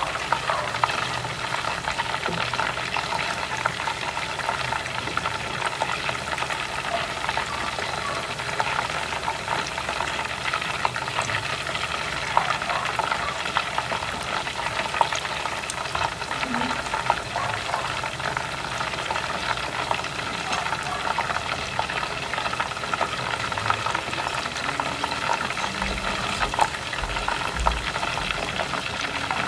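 Chicken pieces frying in cooking oil, a steady sizzle full of fine crackles and pops.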